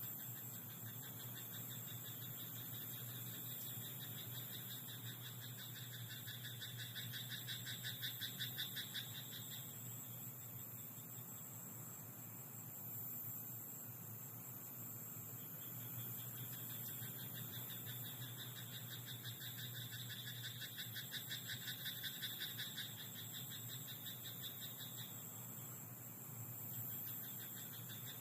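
Frogs croaking in a chorus of rapid pulsed calls that swell and fade in two long bouts, over a steady high hiss.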